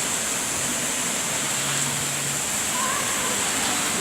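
Heavy thunderstorm downpour: rain pouring steadily in an even hiss.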